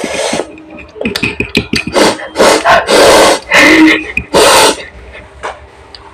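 Close-up eating of raw gooseberries: crunching bites and wet chewing, with a run of loud, short, hissing mouth noises between about two and five seconds in, among many small clicks.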